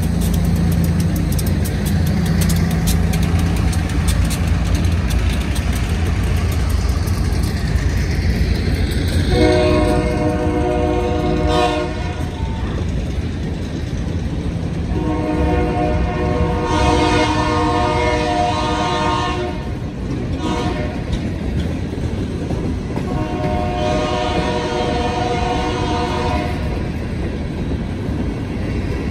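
Diesel-hauled freight train passing close by. The locomotive's engine rumbles past at first, then its air horn sounds three long blasts from up the line while the hopper cars keep rolling over the rails.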